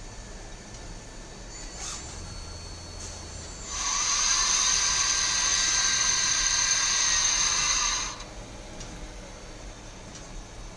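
Citizen M32 Swiss-type CNC lathe machining: about four seconds in, a loud high-pitched whine with hiss starts and runs steadily for about four seconds before cutting off abruptly, over a low steady machine hum.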